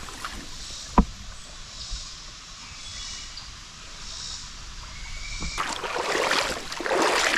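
Splashing steps through shallow creek water, starting about five and a half seconds in and getting louder. Before that the background is quiet, with a single sharp knock about a second in.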